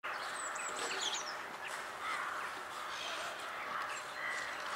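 Birds calling outdoors, with a few high, thin descending chirps about half a second to a second and a half in over a steady background of bird calls.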